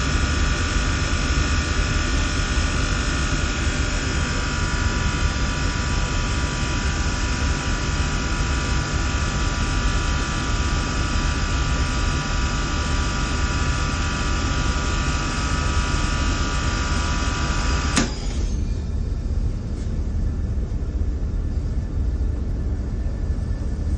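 Air-conditioning machinery of a chiller and fan-coil system running steadily: a low rumble under a hiss with several steady whining tones. About eighteen seconds in there is a click, and the hiss and whine cut off suddenly, leaving the low rumble running.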